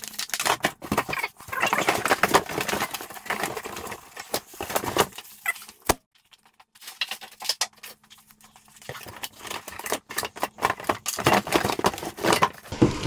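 Packaging rustling and crinkling, with light clicks and knocks from parts being handled as a new auger is unpacked. A sharp snap about six seconds in is followed by a lull of about three seconds, then the rustling picks up again.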